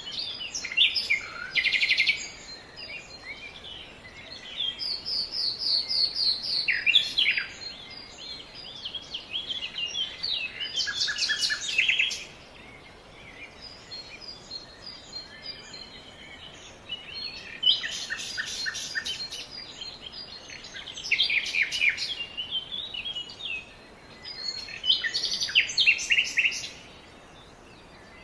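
Songbirds chirping and singing in bouts of quick repeated notes and trills, with short lulls between, over faint background hiss.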